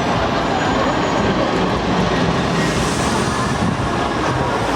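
Heavy truck diesel engines running steadily as trucks drive past in a convoy, a dense continuous rumble.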